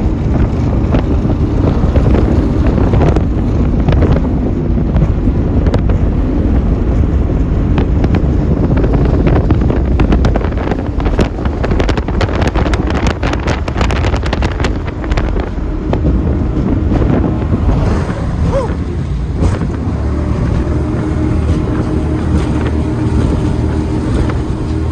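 Racing powerboat engine running at speed, a steady low rumble with heavy wind buffeting on the microphone. A run of sharp crackling clicks comes through the middle, and a steadier engine tone shows near the end.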